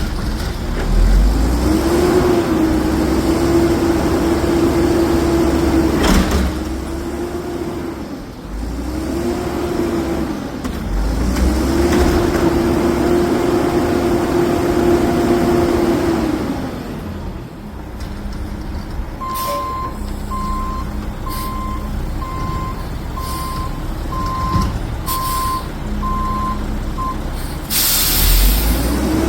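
Garbage truck engine revving up and holding for several seconds, twice, then its reversing alarm beeping about once a second, and a loud air brake hiss near the end.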